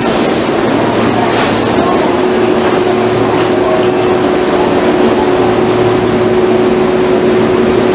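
A Hanshin 5700-series train standing at the platform gives a steady hum, with a steady tone setting in about two seconds in, over the bustle of a crowd of passengers walking past.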